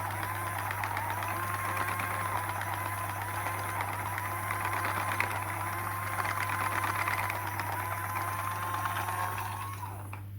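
A small electric motor running steadily with a high whine and fast fine rattle, winding down and stopping near the end.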